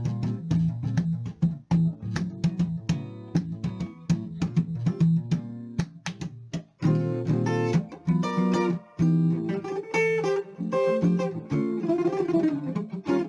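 Instrumental Brazilian jazz guitar music: quick picked guitar notes over low bass notes, opening into fuller chords and melody about halfway through.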